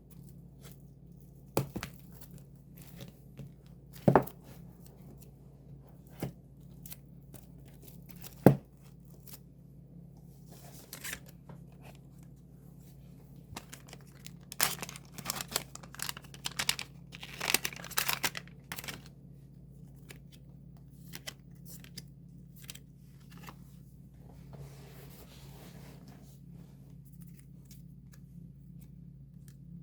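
Handling and unwrapping of a K-pop album's packaging: a few sharp knocks as it is handled, then several seconds of plastic wrapping being torn and crinkled, over a steady low hum.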